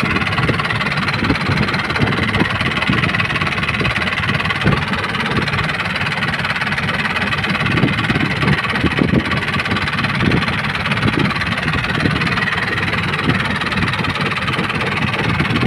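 Fishing boat's engine running steadily under way, a continuous low rumble.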